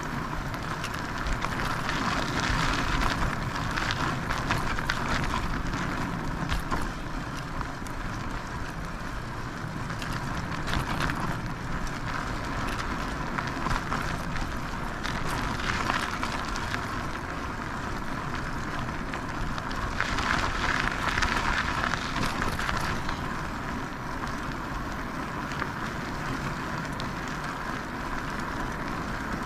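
Riding an e-bike: tyres rolling over a rough path with a steady crackling noise and wind on the camera microphone, swelling louder a couple of times.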